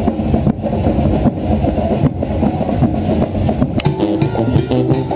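Loud parade music with drums, muddy and heavy in the low end, over a low steady rumble.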